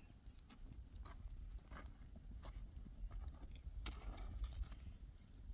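Donkey's hooves clopping unevenly on stony ground, with low rumble underneath.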